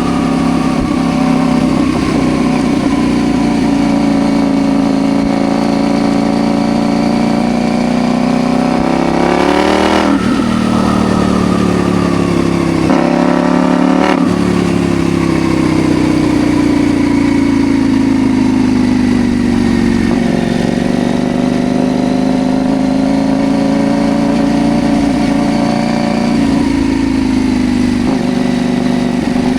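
CFMoto Ibex 800 T motorcycle engine running under way, with its pitch rising as it revs up about a third of the way in, then dropping sharply at a gear change. The revs sag and pick up gently with the throttle through the rest, over steady wind and road noise.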